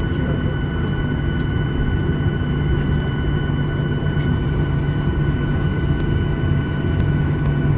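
Cabin noise of a Boeing 737-800 with its CFM56 jet engines running at low thrust before takeoff: a steady low rumble with a constant high whine over it.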